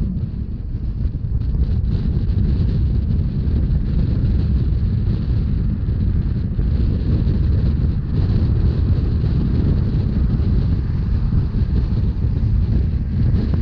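Narrow-gauge Rhaetian Railway train running at speed: a steady low rumble of wheels on the track, with wind buffeting the microphone.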